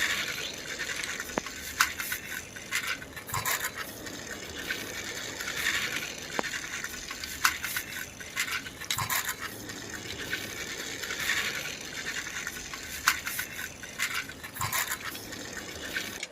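A plastic toy car being run along a surface, its wheels rolling and scraping in repeated swells every few seconds, with scattered sharp clicks and rattles.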